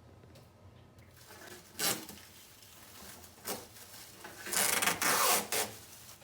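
Several short bursts of rubbing, scrubbing noise from cleaning washing-machine parts. The longest and loudest bout lasts about a second, near the end.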